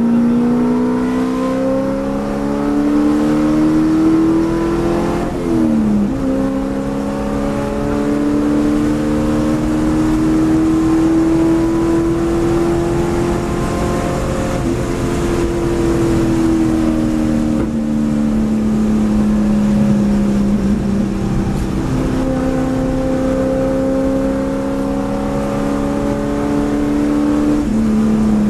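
Race car engine heard from inside the cabin, accelerating hard. The revs climb, drop sharply at an upshift about five seconds in, then climb again at full throttle to a peak. After that the revs fall steadily as the car slows, step up about 22 seconds in and rise again, then drop near the end.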